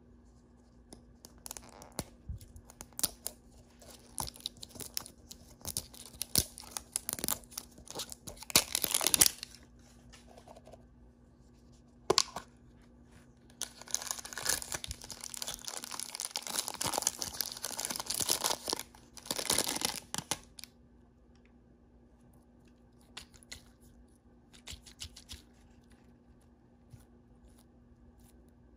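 A blind-bag or surprise-egg wrapper being torn open and crinkled by hand, in two long spells of tearing and crackling with a sharp snap between them, then a few faint rustles near the end.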